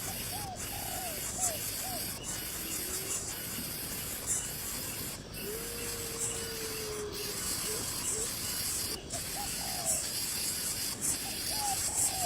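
Faint short bird chirps now and then, with one longer held note about halfway through, over a steady high hiss that briefly drops out every second or so.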